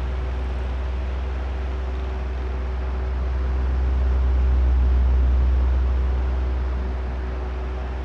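Oscillating electric fan running: a steady low motor hum under a rush of moving air. It swells louder around the middle as the fan head sweeps past, then eases off again.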